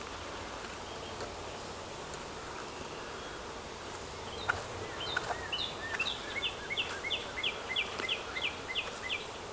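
Steady outdoor hiss with honeybees buzzing, and from about halfway through a songbird singing a fast run of short repeated descending notes, about four a second, stopping just before the end.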